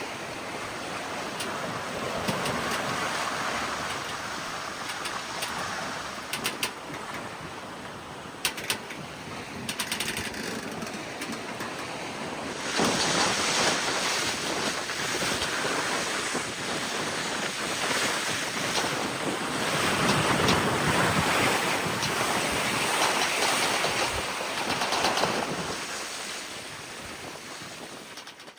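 Sea water rushing and splashing along a sailing yacht's hull as it runs fast downwind, with wind gusting on the microphone. It gets louder about a third of the way through, and a few light ticks come in the first half.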